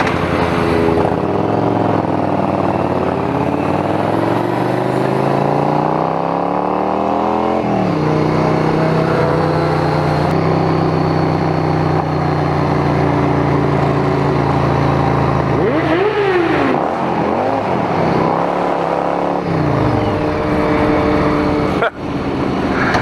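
Motorcycle engine under way, its pitch rising steadily for several seconds as it accelerates, then dropping at a gear change and holding steady at speed. A shorter rise and fall comes later.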